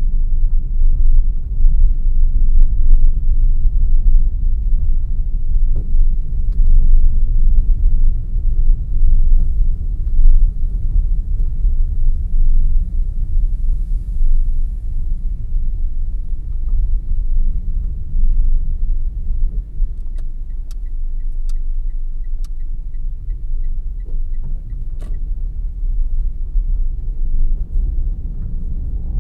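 Car driving along a road: a steady, low rumble of road and engine noise. Some twenty seconds in, a run of even ticks, about three a second, lasts for roughly five seconds.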